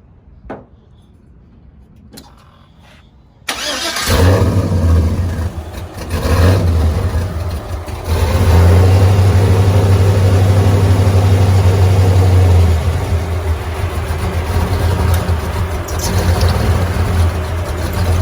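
A truck engine starting: after a few faint clicks it cranks and catches suddenly about three and a half seconds in, is revved up for several seconds, then settles to a steadier, lower run.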